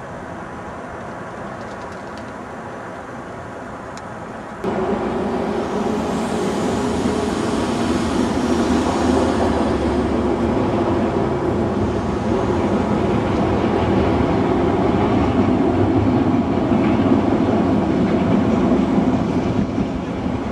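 Diesel multiple-unit passenger train crossing the steel Forth Bridge: a steady rumble that jumps suddenly louder about four and a half seconds in and stays loud.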